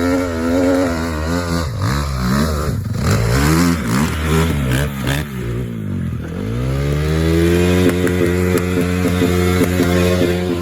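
Dirt bike engine revving hard as it is ridden up a steep hill, the pitch wavering with the throttle, dropping sharply about six seconds in, then climbing back to a steady high rev. Sharp knocks and clatter of the bike bouncing over rough ground.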